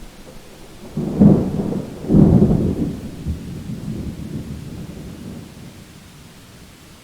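A thunderclap: two loud cracks about a second apart, then a low rumble that rolls on and fades away over several seconds.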